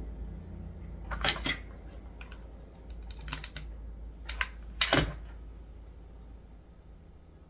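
A few clusters of light clicks and taps from small objects being handled on a work surface, the last about five seconds in being the loudest, over a low steady hum.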